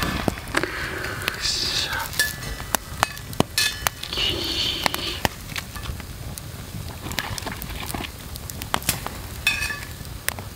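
Chicken nuggets sizzling as they fry in a black skillet over a campfire grill, being crisped on the surface. Many sharp metal clicks and taps are scattered through it.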